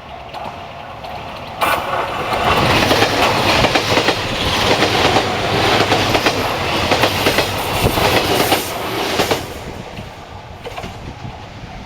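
A train passing close by at speed on the line: it comes in suddenly about a second and a half in, a loud rushing rumble with wheels clacking over the rail joints, then fades away after about eight seconds.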